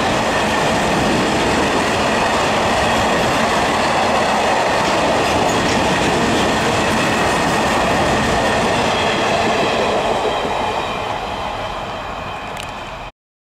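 A long train of open-top freight wagons running past at speed: steel wheels clattering on the rails with a faint steady high-pitched ring. About ten seconds in, the noise fades as the last wagons go by, then it cuts off abruptly near the end.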